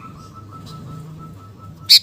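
A faint, steady, slightly wavering whistle-like tone, then near the end a loud, sharp call from a sooty-headed bulbul breaks in.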